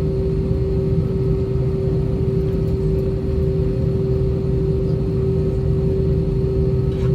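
Steady cabin drone of an Airbus A320-232 taxiing, with its IAE V2500 engines at idle: a constant hum over a low rumble. A faint tick sounds near the end.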